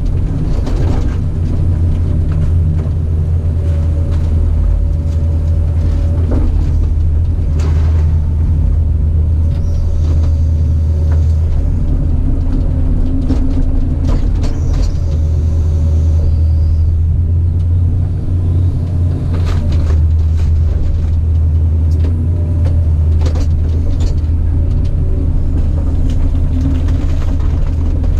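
Caterpillar 973C track loader's diesel engine running steadily at work, with scattered knocks and clanks.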